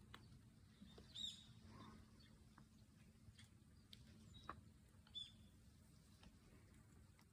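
Quiet background with a bird chirping twice, about a second in and again near five seconds, and a few faint clicks in between.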